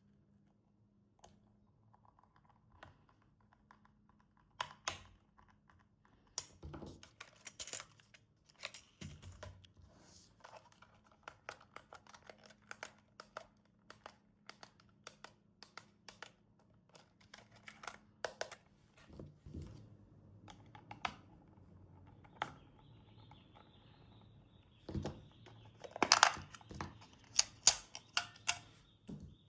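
Unboxing and handling of a toy RC car and its packaging: many small plastic clicks and taps with bits of crinkling, growing into louder clicks and knocks in the last few seconds. A faint steady high tone comes in about two-thirds of the way through.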